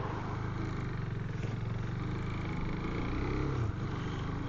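Husqvarna Svartpilen 401's single-cylinder engine running as the bike rides along, its note rising slightly and then dropping suddenly about three-quarters of the way through.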